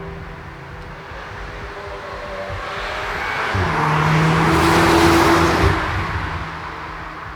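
Cupra Formentor VZ's 2.0-litre turbocharged inline-four car driving past: the engine note and tyre noise grow louder to a peak about five seconds in, then fade away.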